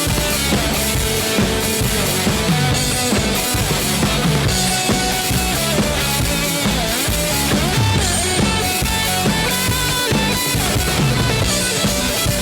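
Instrumental break of an upbeat rock song: full band with a driving drum kit and electric guitars, no singing.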